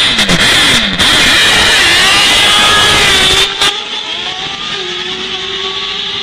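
Dirt drag racing motorcycle engine run hard at full throttle, its pitch sweeping down several times in the first second. About three and a half seconds in it drops sharply to a quieter, steadier engine note.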